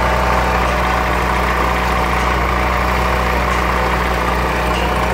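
Renault Clio 1.0 16V four-cylinder engine idling with a steady whining noise from the belt area, the engine misfiring. The noise comes from the broken bearing of the timing-belt tensioner; the misfire is traced to water in the spark-plug wells and a failing ignition coil and leads.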